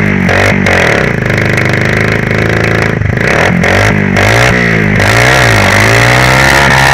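Honda FourTrax ATV's single-cylinder four-stroke engine revving up and down repeatedly under throttle. There is a steadier high-rev stretch a second or two in, then the revs climb again near the end.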